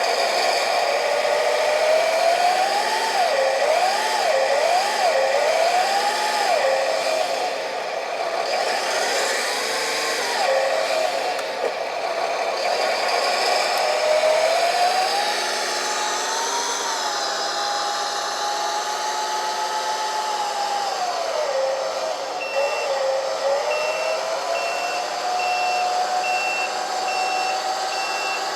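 Radio-controlled hydraulic Fendt 1050 model tractor running, its whine rising and falling in pitch as it is driven and worked. About three-quarters through, its sound system starts a reversing beeper, beeping evenly.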